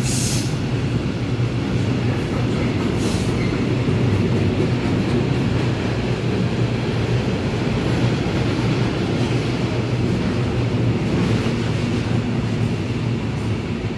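A train running past on the line: a steady, loud rumble of wheels on rail with a low hum, and two short bright hisses, one at the start and one about three seconds in.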